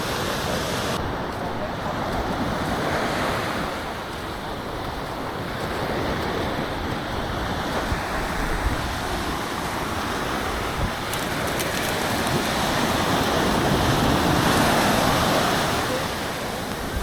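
Sea waves washing onto the beach, a steady rushing that swells and eases, louder towards the end, with some wind on the microphone.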